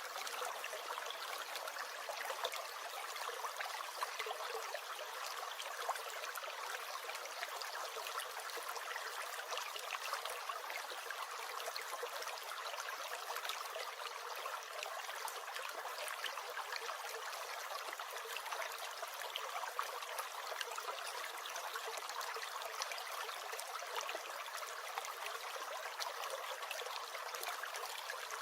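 Small brook gurgling steadily over stones: a continuous babble of running water full of tiny splashes and trickles.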